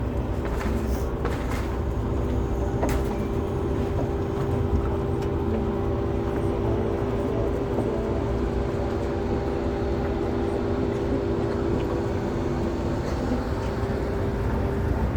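A vehicle on the move at a steady speed: continuous low engine and road rumble with a steady hum that fades near the end.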